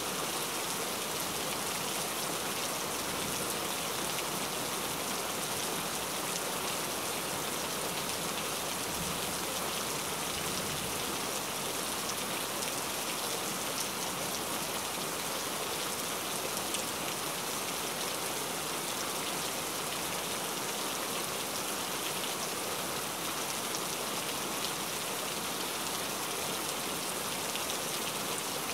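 Steady rain falling: an even hiss of many drops, flecked with small ticks of single drops, unchanging throughout.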